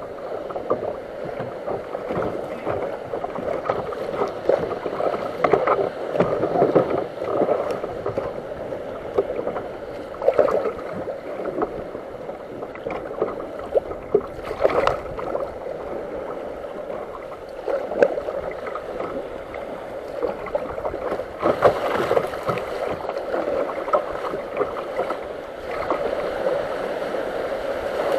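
Water sloshing and splashing around a fishing kayak as it moves out on the sea, a steady wash with irregular splashes.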